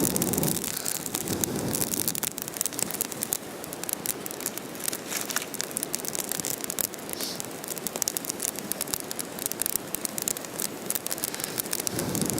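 Small campfire of leaves, wood shavings and kindling crackling with many quick pops, freshly caught and burning well.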